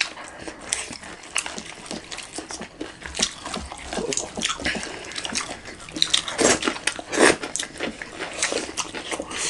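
Close-miked eating sounds: wet chewing, lip smacks and crunchy bites of fried chicken and rice eaten by hand, heard as a steady stream of short crackly clicks with a few louder bites around the middle.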